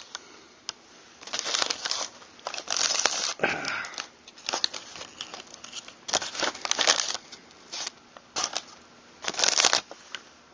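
Rustling, crinkling handling noise in a dozen short bursts as hands move shotgun parts around.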